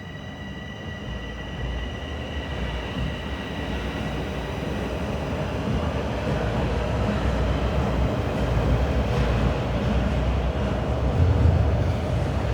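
TTC Sheppard line subway train running on the rails, its rumble growing steadily louder. A steady high whine fades out over the first half.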